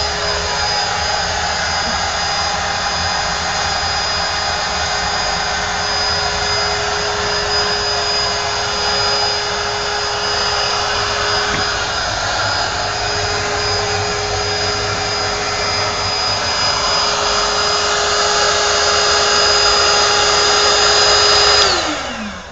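Electric motor running steadily with a hum and a high whine, then switched off near the end and winding down, its pitch falling.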